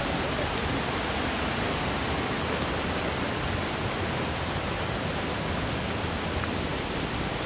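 Steady rush of fast-flowing creek water tumbling over a cascade into a swimming hole.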